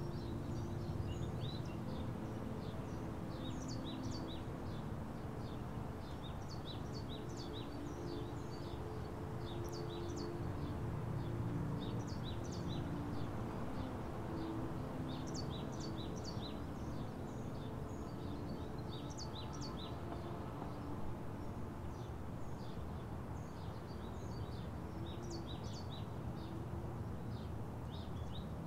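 Birds chirping outdoors, short high calls coming in quick runs every few seconds, over a steady low background rumble.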